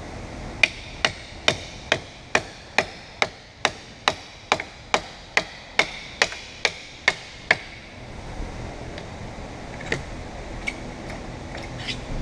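A hammer striking hard, evenly spaced blows, a little over two a second, about seventeen in all, each with a short ring. The blows stop at about seven and a half seconds, and a few faint scattered clicks follow.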